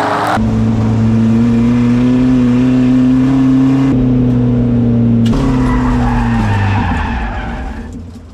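Car engines running hard at a steady pitch, with tyre skidding noise, in a few short cut-together clips; the sound fades out near the end.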